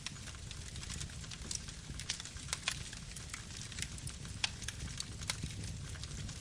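Campfire crackling: irregular sharp pops and snaps over a steady low rumble of the burning wood.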